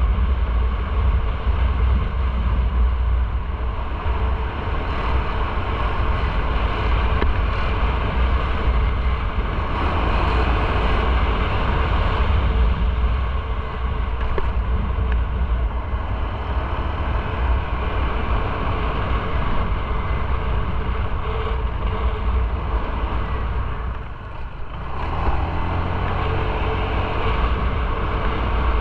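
Motorcycle riding along, its engine and the wind and road noise making a steady, loud rumble that drops briefly about three-quarters of the way through.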